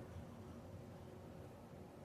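Faint steady low hum and rumble with a thin constant tone; no distinct event stands out.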